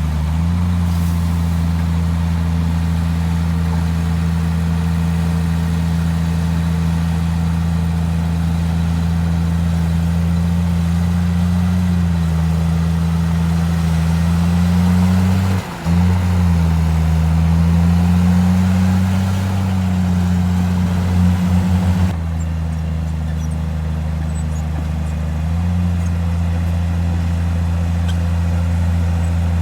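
Heavy diesel engine of earthmoving machinery running under load, its pitch rising and falling slowly. The sound dips briefly about fifteen seconds in and changes abruptly a little after twenty seconds in.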